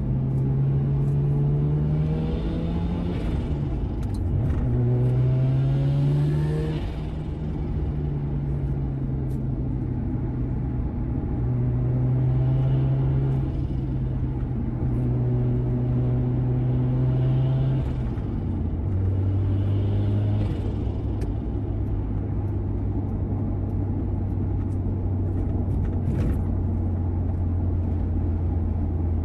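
Mazda RX-7 FD's turbocharged 13B rotary engine running through an aftermarket muffler. Its pitch climbs twice in the first seven seconds, holds steady, then settles lower about eighteen seconds in.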